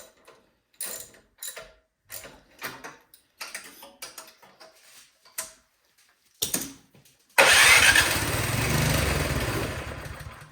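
A few short clicks and knocks, then about seven seconds in the Craftsman snowblower's small four-stroke engine suddenly fires on starting fluid sprayed into the cylinder. It runs briefly and fades as it dies out. Running on starting fluid points to a fuel problem, maybe bad fuel or old gas gumming up the carburetor.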